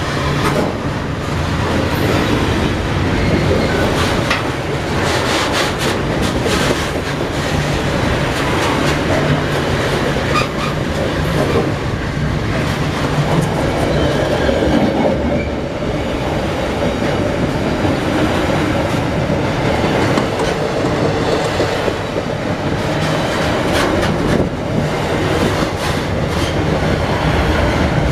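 Freight wagons rolling close past at steady speed: a continuous rumble of steel wheels on rail, broken by repeated clicks and clacks as the wheels cross rail joints. The consist runs from container flatcars to open hopper wagons.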